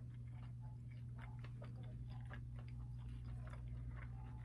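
Faint chewing while eating by hand: small irregular mouth clicks over a steady low hum.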